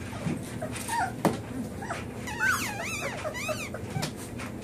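Young puppies whimpering in high, wavering squeals, a run of several cries about halfway through, crying for their absent mother. A single sharp knock about a second in.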